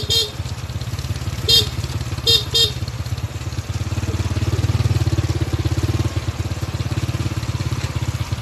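Motorcycle engine running steadily, with a few short high beeps in the first three seconds.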